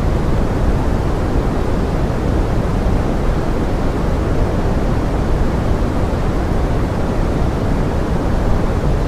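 Steady pink noise blended with forest rain: an even, unbroken rushing hiss, heavier in the low end, with no changes or separate events.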